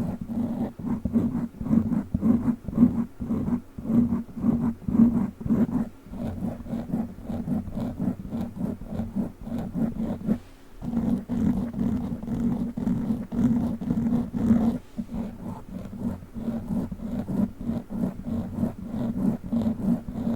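Fast rubbing and scratching on a foam microphone cover with plastic witch-finger claws, a dense run of low, rough strokes close to the microphone, with a short break about ten seconds in.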